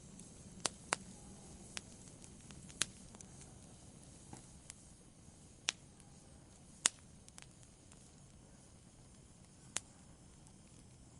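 Wood fire burning: sharp, irregular crackles and pops of burning wood, about ten in all, over a soft steady hiss of the flames.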